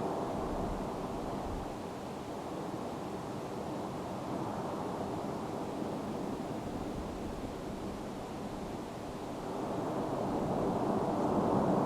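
Steady rushing roar of Mt. Etna erupting, swelling louder near the end.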